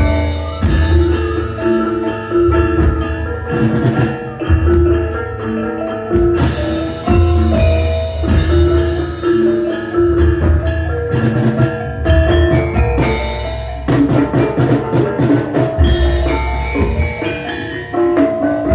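Javanese gamelan ensemble playing an instrumental gending: bronze metallophones ring repeated pitched notes over drum strokes and deep low booms. About two-thirds of the way through comes a quick run of sharp, crisp strikes.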